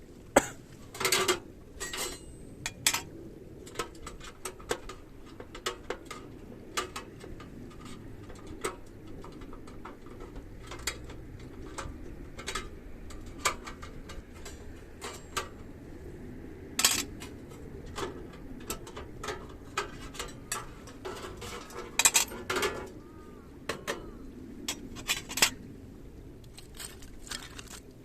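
Metal pieces of a combination fire pit, smoker and fire-extinguishing pot with a trivet being handled and set in place: irregular clinks and clanks of metal on metal, spaced unevenly, with a few louder knocks among them.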